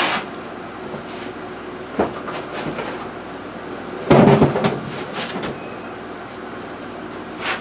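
Scattered knocks and clatter of objects being handled and set down on a workbench, the loudest a brief clatter about four seconds in, over a steady low hum.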